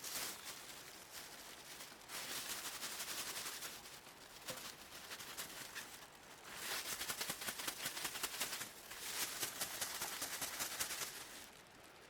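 Wood campfire crackling and popping, swelling into dense runs of snaps and dying back between them.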